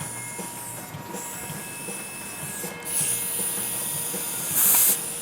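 Steady high hiss of gas escaping through the valve of a model W.T. Preston steam engine on its first test. The hiss cuts out briefly twice and ends with a louder gush near the end.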